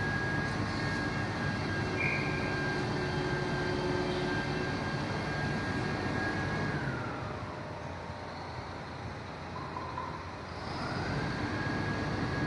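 Fire truck engine running, with a steady high whine over it. The whine slides down and fades about seven seconds in, as the running drops quieter, then slides back up to the same pitch near the end.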